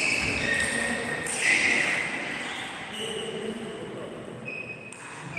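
Indistinct voices echoing in a table tennis hall, with a sharp ball click about five seconds in.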